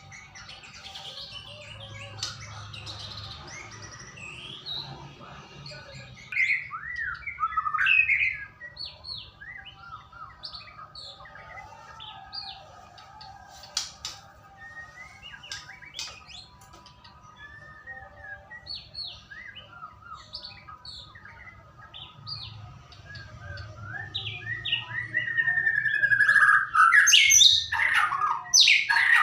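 White-rumped shama (murai batu) singing: a varied string of short whistles, chirps and sweeping notes, sparse through the middle and growing louder and denser near the end, over a faint steady low hum.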